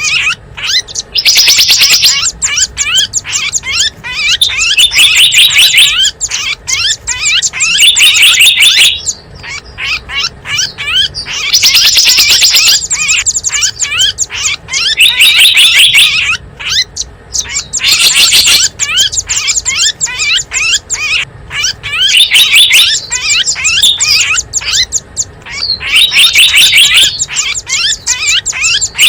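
Bird-lure recording of small wild birds: a dense, loud chatter of rapid chirps, broken every few seconds by loud buzzy trills.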